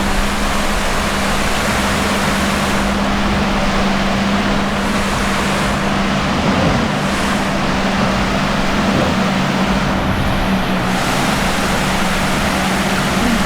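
Steady rushing noise of surf and wind along a beach, with a constant low hum underneath.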